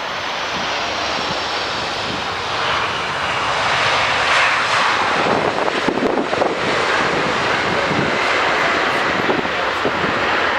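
Boeing 747-400's four Rolls-Royce RB211 turbofans on landing approach: a jet rumble that swells about four seconds in and then holds, with a high whine that slides down in pitch over the first few seconds.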